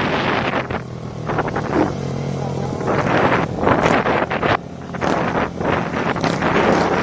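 Motorcycles with open exhausts running and revving in uneven surges, with wind buffeting the microphone.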